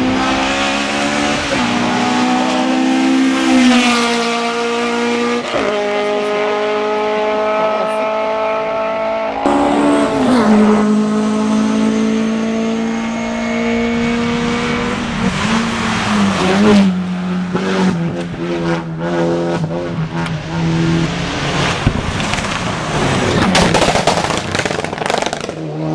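Hill-climb race car engine at high revs, holding a steady howl in each gear with abrupt pitch steps at several gear changes. There may be a brief tyre squeal.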